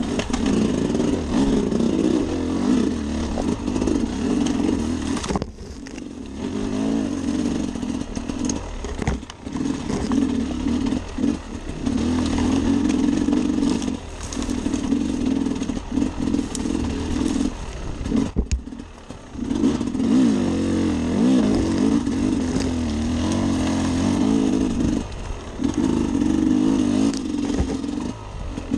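Sherco SE 300 Factory's 300 cc two-stroke single-cylinder engine under way on a rough trail, revving up and down as the throttle is worked, with brief drops where the throttle is shut about five and eighteen seconds in.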